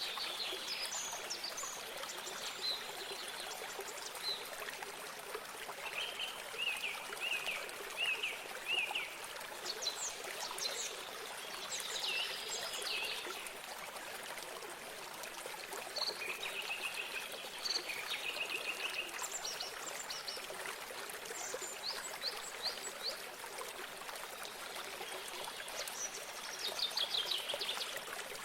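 Steady trickling of a small stream, with songbirds calling over it in short chirps and rapid trills every few seconds.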